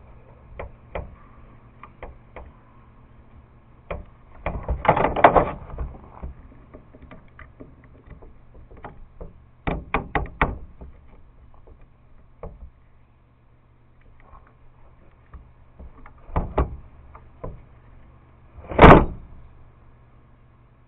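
Parts of a small table-saw electric motor being handled and fitted back together: scattered clicks and knocks, a cluster of them about five seconds in, three sharp clicks around ten seconds, and the loudest knock near the end.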